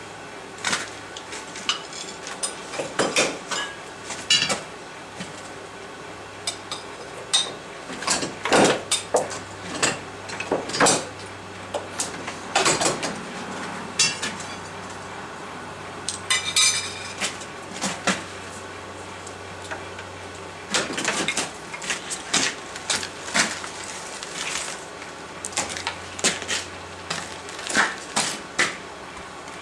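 Irregular metal clanks and clinks of blacksmith's tools and steel stock being handled at a coal forge and anvil, some strikes ringing briefly, with no steady hammering rhythm.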